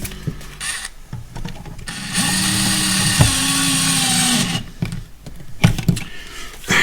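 DeWalt cordless electric screwdriver running once for about two and a half seconds, its motor whine rising as it spins up and dropping as it stops. Light clicks and handling knocks come before and after.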